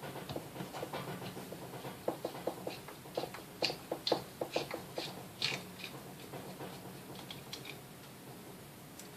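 Irregular small clicks and taps of hand tools and metal parts as the front of a Sunbeam Mixmaster stand mixer is taken apart. They come thickest in the middle and thin out near the end.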